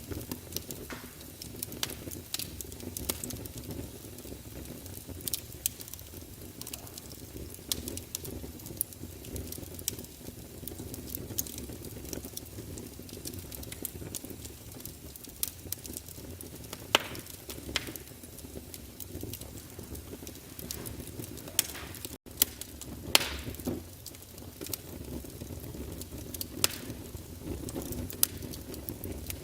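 Fire crackling in a fireplace: a steady low rumble of flames with irregular sharp pops and snaps, a few louder ones in the second half. The sound cuts out for an instant about three-quarters of the way through.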